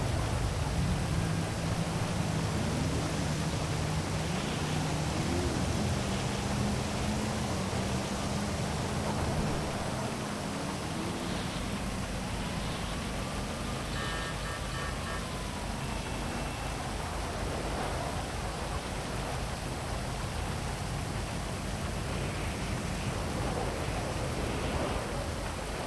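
Heavy rain falling steadily, a constant rushing hiss. A vehicle engine hums low under it for roughly the first ten seconds, then fades, and a few faint short tones come through about halfway.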